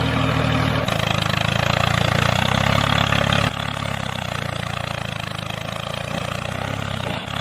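An engine running steadily with a fast, even pulse; its sound shifts about a second in and again about three and a half seconds in.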